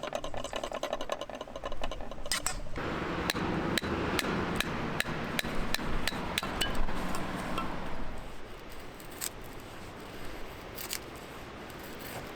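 Background music fades out in the first few seconds. Then come a run of sharp taps and clinks, roughly two a second, from cooking utensils or knife work during camp cooking.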